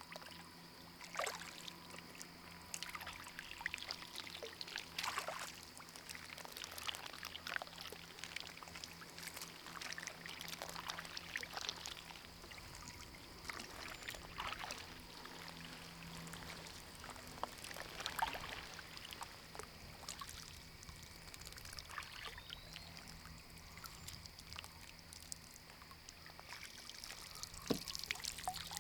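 Kayak paddle dipping in shallow water, with irregular small splashes and water dripping and trickling as the kayak moves forward.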